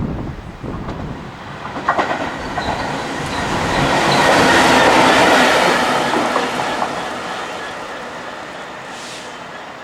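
Class 66 diesel locomotive passing close by, its wheels clattering over the rail joints. The sound swells to a peak about halfway and then fades as it moves away, with a sharp clack about two seconds in.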